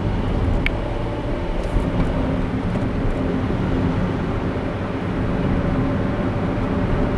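Steady low rumble of a car driving: tyre and engine noise with a faint hum, and a brief click under a second in.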